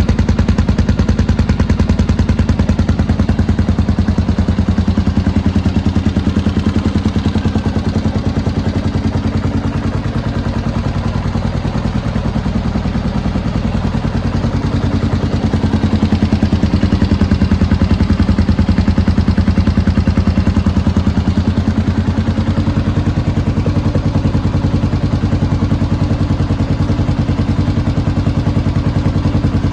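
Honda XR650R single-cylinder four-stroke engine idling through a DG V2 aftermarket exhaust, a steady rapid pulsing that eases off slightly and comes back up near the middle. The owner finds this sound a little too loud.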